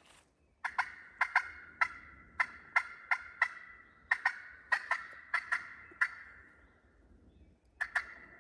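Eastern wild turkeys gobbling down the ridge, a run of sharp ringing notes over about five seconds and another short burst near the end.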